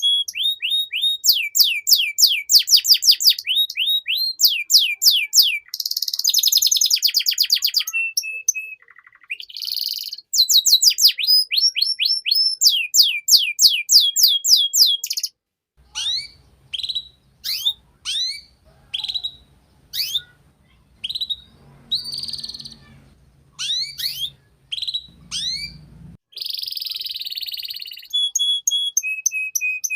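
Domestic canary singing: fast trills of repeated downward-sliding high notes, switching from one trill to another every second or two. About halfway through, the song turns into slower, spaced single notes over a low hum before the rapid trills return.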